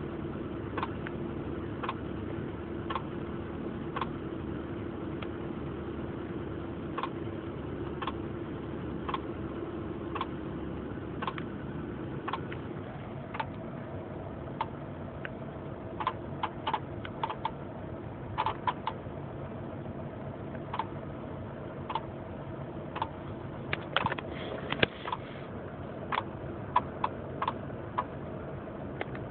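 1996 Honda Accord LX's four-cylinder engine running with an unexplained clicking: sharp, irregular clicks about once a second, sometimes in quick pairs or clusters, over a steady hum whose pitch steps up partway through.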